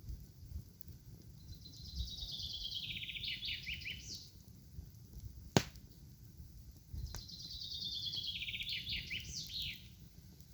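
A songbird sings two phrases, each a quick run of notes falling in pitch and ending in a short flourish. Between the phrases comes a single sharp snap, the loudest sound.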